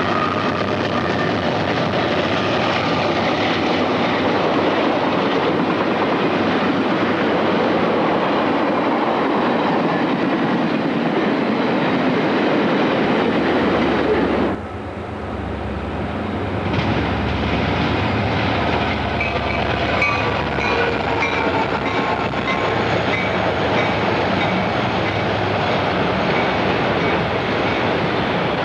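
A train rolling past, its cars clattering over the rail joints. The level drops suddenly about halfway through, and high, thin squeals of wheels on rail come in during the second half.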